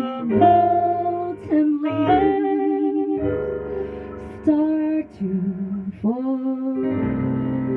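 Live jazz-pop band playing a slow instrumental passage, a melody line holding long notes over sustained chords.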